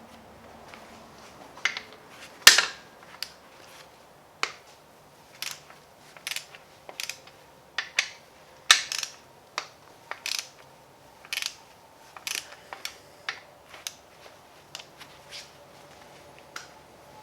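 Irregular metallic clicks and clinks of hand tools and engine parts being handled during a Gen 4 Hemi teardown, with one sharp knock about two and a half seconds in.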